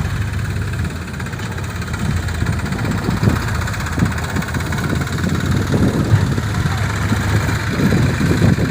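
Diesel engine of heavy earth-moving machinery running steadily, with irregular surges from about three seconds in.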